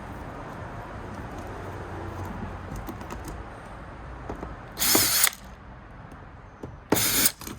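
Two short, loud bursts of ratchet-like mechanical whirring, a little under two seconds apart, typical of a screwdriver working screws during the teardown of an iMac's power supply.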